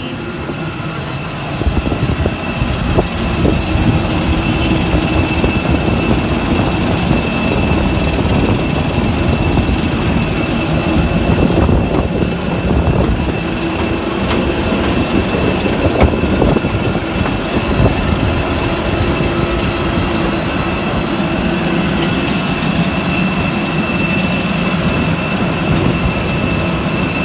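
Airbus A320 cabin noise: a loud, steady rumble of jet engines and airflow with a high whine on top, growing louder about a second and a half in.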